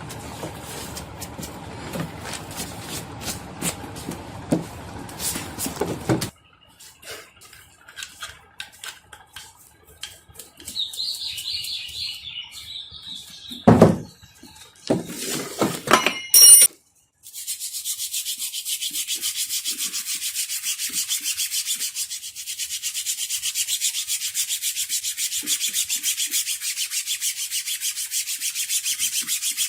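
Workshop handling of metal parts, with clicks and a few sharp knocks. Then, about seventeen seconds in, quick even rubbing strokes begin and run on: a part being hand-sanded or filed as it is cleaned up for restoration.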